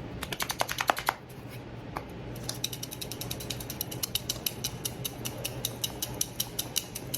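Spice jar of onion powder being shaken over a bowl of salmon cubes: a short run of sharp clicks, a pause, then quick, even clicking from about two seconds in.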